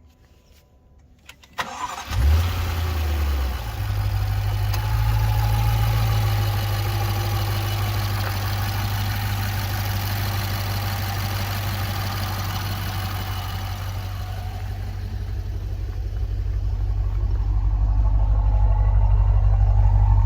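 Car engine cranked and catching about two seconds in, briefly flaring up after the start, then settling into a steady idle. The engine note grows louder gradually near the end.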